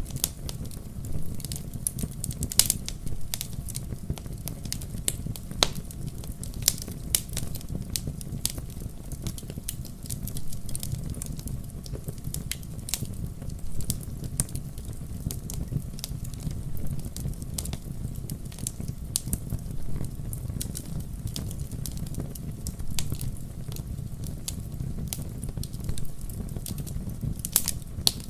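Wood fire crackling with frequent irregular sharp pops, over a steady low rumble of rain in a fireplace-and-rain ambience mix.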